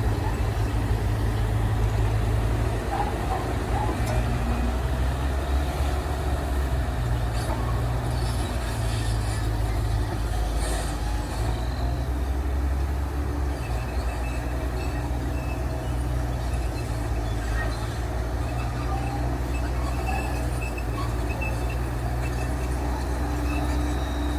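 Heavy diesel engine of an earthmoving machine running under load, a low drone that shifts in level every few seconds, with faint metallic clatter over it.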